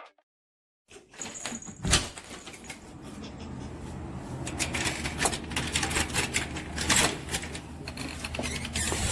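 A quick run of irregular clicks and knocks over a steady low hum, busiest in the middle, after about a second of silence.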